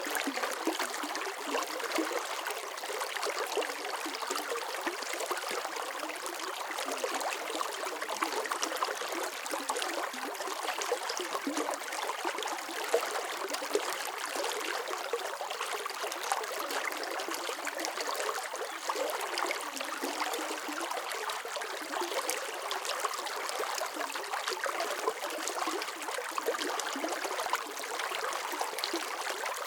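Running water flowing steadily, a continuous dense patter of small splashes and trickles, light and without any deep rumble.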